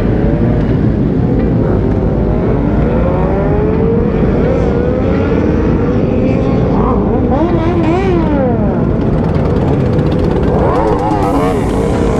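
Motorcycle engines running under a heavy, steady low rumble, their pitch climbing slowly and then rising and falling quickly in revs twice in the second half.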